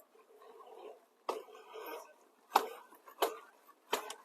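A few light, sharp knocks or taps, irregularly spaced about a second apart, with a faint rustle between them; no engine is heard.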